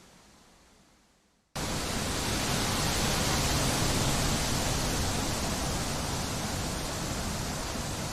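Recorded wind noise. A faint wind track fades almost to nothing, then about a second and a half in a loud, even rushing hiss of wind cuts in abruptly and holds steady.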